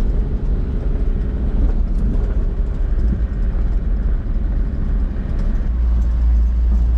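A vehicle engine running steadily while driving along a track, with a heavy low rumble that swells slightly near the end.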